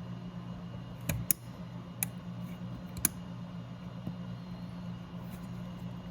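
A few sharp plastic clicks and knocks, about four in the first three seconds, as the door-handle cable is clipped onto the door latch assembly, over a steady low hum.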